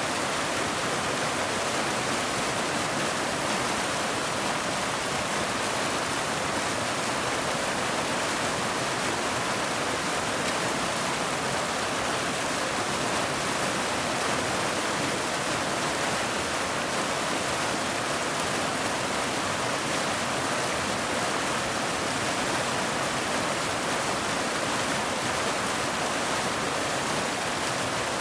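Steady rain, a continuous even hiss with no separate drops or other events standing out.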